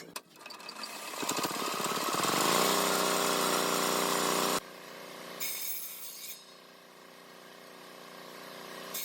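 An electric power tool working wood: it spins up with a rising whine about a second in, runs loud and steady, then cuts off suddenly about halfway through. After it stops there is quieter working noise with a couple of short hissing bursts.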